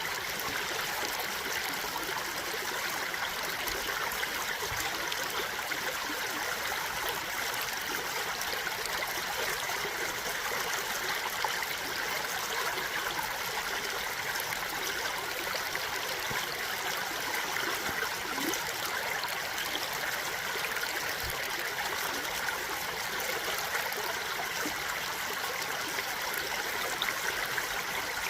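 Stream water flowing steadily in an even, unbroken rush.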